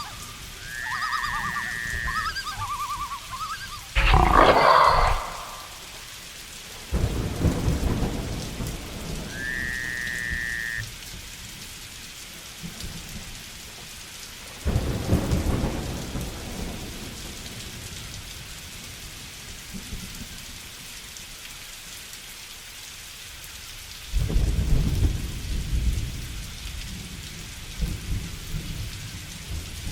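Steady rain falling, with thunder rumbling several times. A loud, sudden sound comes about four seconds in, and a bird or animal gives short pitched calls twice in the first ten seconds.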